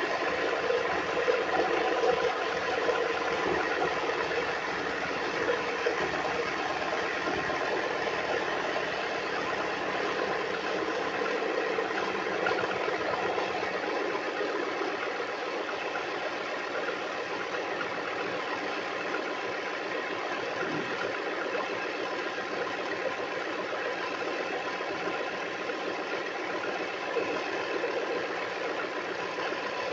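Car engine idling steadily just after being started, easing slightly in level about halfway through.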